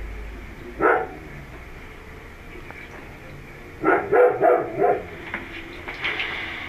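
A dog barking: one bark about a second in, then a quick run of four barks a few seconds later.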